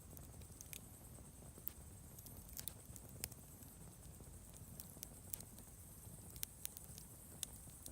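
Wood campfire crackling: irregular sharp pops and snaps, several a second at times, over a low steady rush of the flames.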